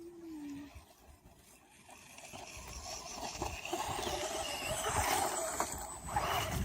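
Electric RC monster truck driving through snow, its tyres crunching and throwing snow with scattered knocks from the chassis. The sound grows louder from about two seconds in.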